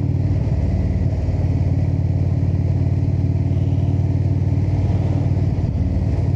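Indian V-twin motorcycle engine running steadily at road speed, with wind rush on the rider's camera mic. The engine note shifts briefly about half a second in and again near the end, as the throttle changes.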